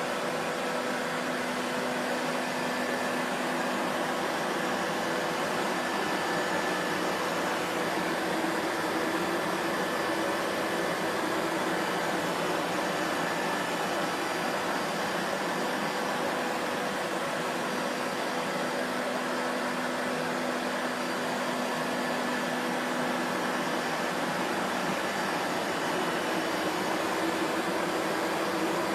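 Vacuum cleaner motor running continuously: a steady whirring rush with a faint hum in it, unchanging in level.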